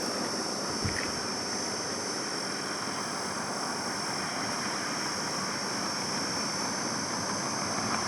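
Highway traffic noise: a steady rush of passing vehicles, with a steady high-pitched hiss above it.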